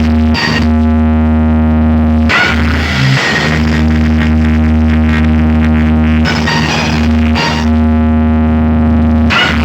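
Loud music played through a DJ sound system during a sound test: a held, distorted chord over very heavy bass, cut by a crashing hit about every three to four seconds.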